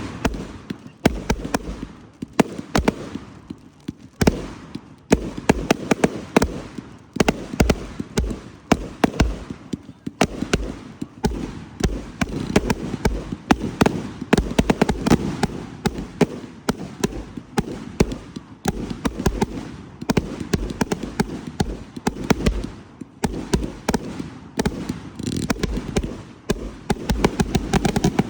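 Fireworks going off in rapid succession, a dense string of sharp bangs and crackles over deep booms, with only brief let-ups.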